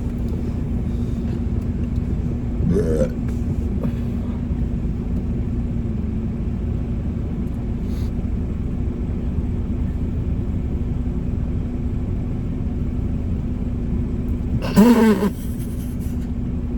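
Car engine idling with a steady low rumble and hum, heard from inside the cabin. A short voiced sound from a person comes about three seconds in, and a louder one about fifteen seconds in.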